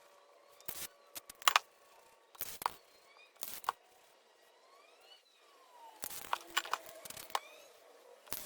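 Short hissing spurts of spray paint from an aerosol can, about a dozen brief blasts at uneven intervals, with a cluster near the end.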